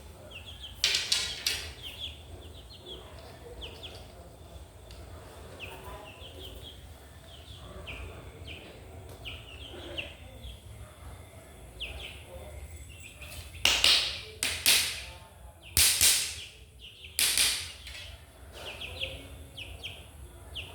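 A chick peeping over and over, short falling notes. A few loud, brief rustling bursts come about a second in and several more in the second half.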